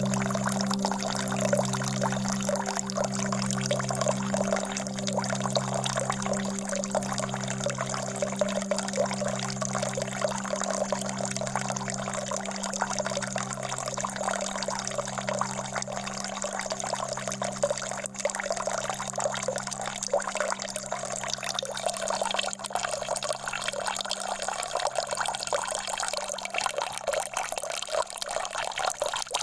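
Steady flowing, trickling water. Underneath runs a low, steady drone that pulses softly about every two seconds.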